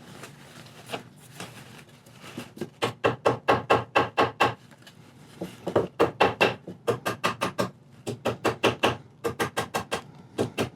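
Rapid runs of sharp knocks on the wooden chair frame, about five a second, in several bursts with short pauses between them.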